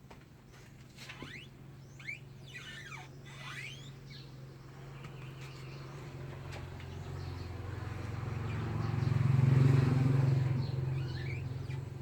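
Engine of a homemade tractor running at a steady pitch, growing louder as it approaches, loudest near the end, then easing off as it moves away. A few short high chirps or squeaks sound in the first few seconds.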